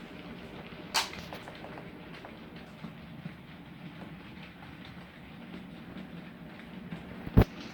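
Model train running on layout track: a steady low motor hum with light clicking of wheels over the rail joints, a sharp click about a second in and a louder knock near the end.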